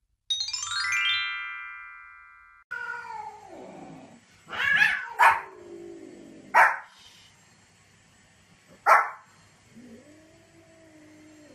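A short chime sting of stepped tones opens. Then a small dog, a white Pomeranian, gives four sharp, high barks a second or two apart. A cat meows, a long falling meow before the barks and a fainter one near the end.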